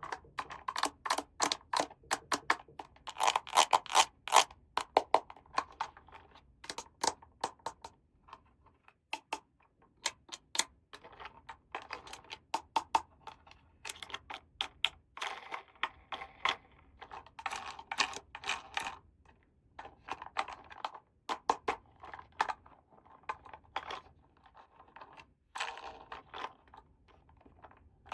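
Rapid clicking and tapping of small plastic toy pieces being handled and set down, in busy clusters with short pauses.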